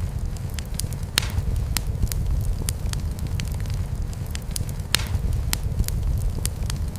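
Wood fire burning in a fireplace, crackling with frequent sharp pops over a steady low rumble; two louder pops about a second in and near five seconds in.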